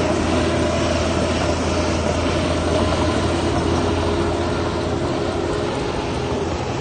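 Heavy diesel machinery engine running steadily under load, a continuous low drone with a steady hum.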